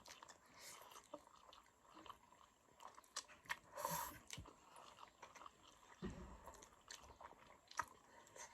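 Faint chewing of instant noodles, with scattered small clicks and mouth noises.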